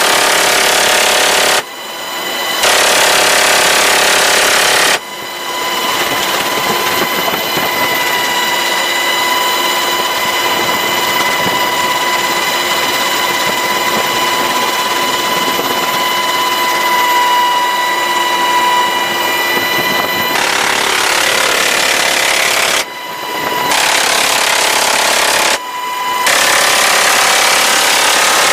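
Machine-gun fire from a Sikorsky HH-60 Pave Hawk helicopter: long, continuous bursts that each last two to three seconds and cut off abruptly. A steady high whine of the helicopter runs under the fire throughout.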